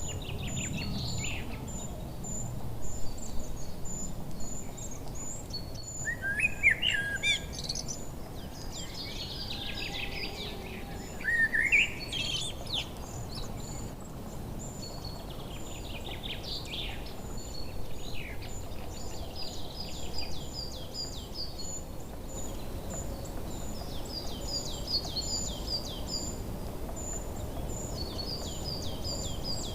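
Several wild birds calling and singing: a steady, fast train of very high short notes runs throughout, with loud rising whistled calls twice in the first half and runs of short falling notes later, over low background noise.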